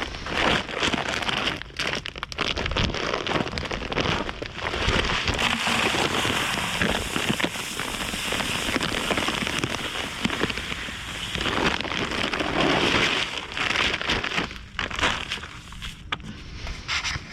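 Dry bird seed being poured into a bird feeder, a dense pattering hiss of many small seeds falling and rattling.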